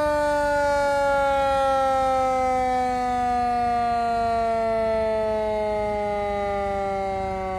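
Mechanical siren on a 1944 Diamond T fire truck winding down: one long wail that slowly and steadily falls in pitch.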